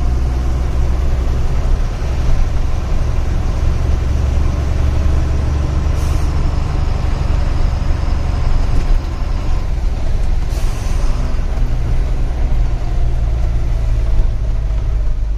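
Diesel engine of a loaded goods truck running steadily on the road, with two short air-brake hisses, about six and ten and a half seconds in, as the driver brakes.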